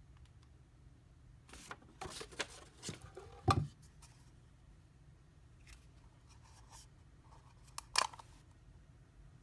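Handling noises: rustling, scraping and clicks in two bursts, with a knock about three and a half seconds in and a sharper one about eight seconds in.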